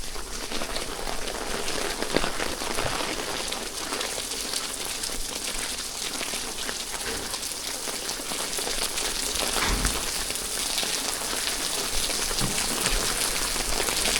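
Steady rain falling, an even hiss dotted with many small drop ticks on surfaces.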